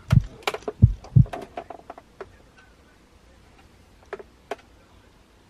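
A few dull thumps mixed with sharp clicks in the first two seconds, then two single clicks a little after four seconds in, as a person steps onto and settles on a bathroom scale.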